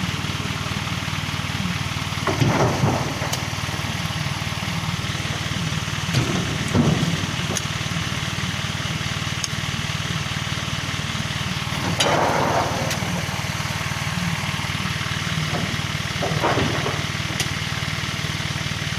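Truck engine idling steadily, with four louder thumps spaced several seconds apart.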